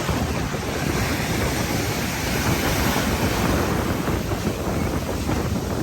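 Ocean surf breaking on a beach, with strong wind buffeting the microphone.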